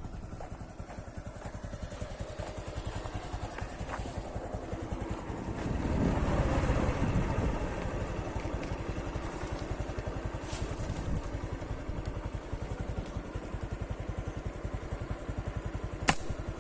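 A small engine running steadily with a rapid, even pulse, louder for a couple of seconds around six seconds in. A sharp click comes near the end.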